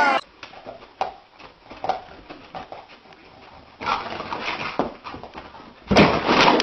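A dog making short whimpering sounds, with a louder noisy sound near the end.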